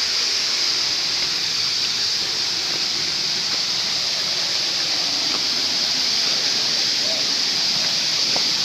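Waterfall: a steady, even rush of falling water, brightest in its high hiss.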